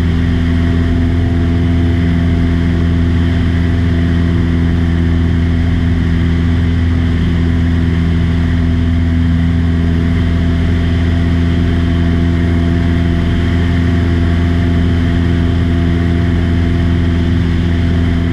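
Light aircraft's piston engine and propeller droning at a steady cruise, heard from inside the cabin.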